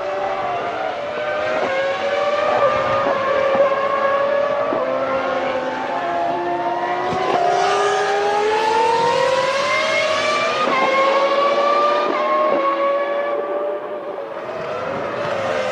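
Formula One cars' 3.0-litre V10 engines at high revs, pulling up through the gears: the engine note climbs steadily in pitch and drops sharply at each upshift.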